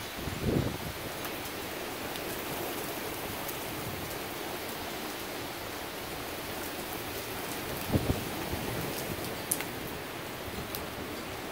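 Steady rain falling in a severe thunderstorm, with a few sharp ticks of drops. Two brief low thumps stand out, about half a second in and again about eight seconds in.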